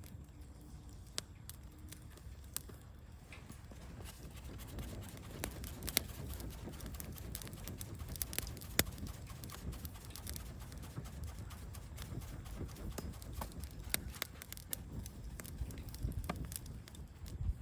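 Campfire burning, crackling with irregular sharp pops of wood over a low steady rumble, with a couple of louder pops partway through.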